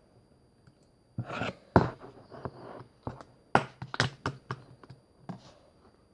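Slime being squeezed and pressed by hand, making irregular clicks and short crackling pops. The louder snaps come about a second and a half in and again around four seconds in.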